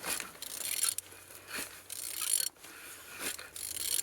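F9DA engine being turned over by hand, its internals giving a run of repeated mechanical ratcheting and scraping strokes; the engine turns freely rather than being seized.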